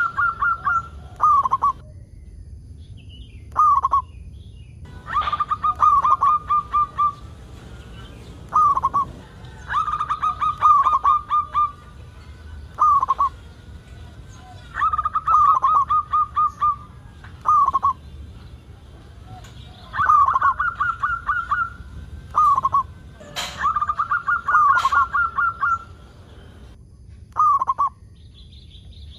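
Zebra dove (perkutut) cooing its song. Each phrase is a quick run of notes followed by one separate note, and the phrase repeats about every five seconds.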